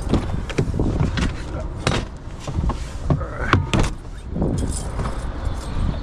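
Sharp metallic clicks and clanks of keys, a lock and a metal door or lid being worked open on a truck, with a short squeak about halfway through. Wind rumbles on the microphone throughout.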